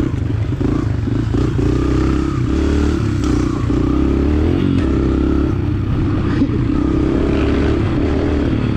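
125cc four-stroke dirt bike engine running steadily as it is ridden, its pitch rising and falling with the throttle, with some clattering along the way.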